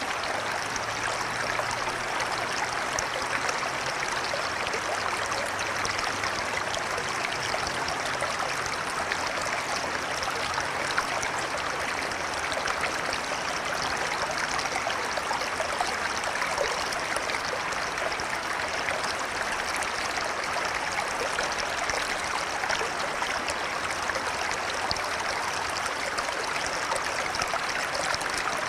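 River water flowing steadily, a continuous rushing and trickling.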